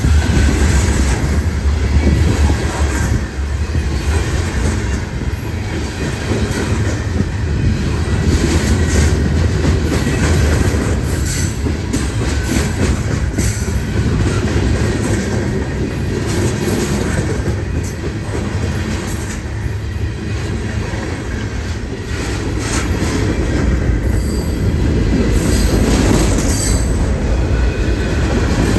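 A train rolling past close by: a steady loud rumble of wheels on rail, with irregular clicks and knocks from the wheels running over the track.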